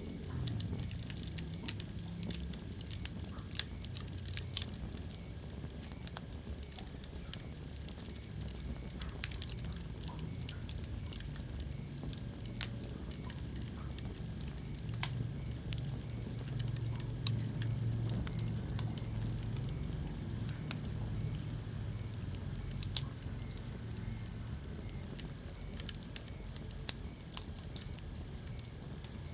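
Wood fire burning in a fireplace: scattered sharp crackles and pops over the steady low rumble of the flames.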